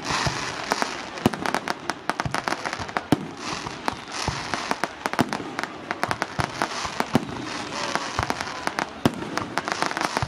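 Fireworks display going off: a rapid, irregular run of sharp bangs from bursting shells, several a second, over a continuous noisy background.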